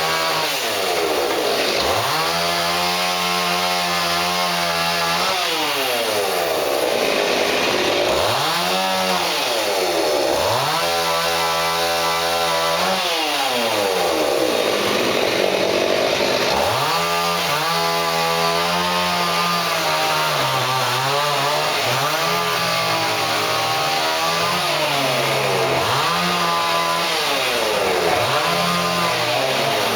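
Two-stroke chainsaw revving up and dropping back to idle again and again, its pitch climbing, holding high and falling, as it is worked through wood.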